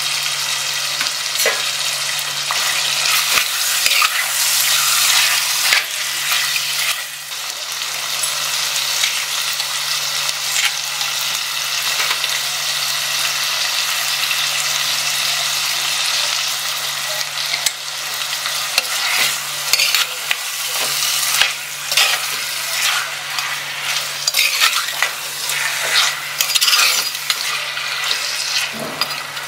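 Chicken pieces sizzling as they fry in hot oil in a pot, while a metal spoon stirs and scrapes them around. The sizzle is steady, and the scrapes come and go, more often in the second half.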